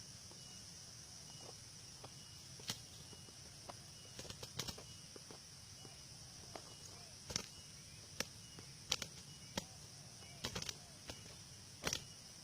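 Zebra doves scuffling: scattered sharp taps and brief flutters, about a dozen spread irregularly, over steady high insect chirring.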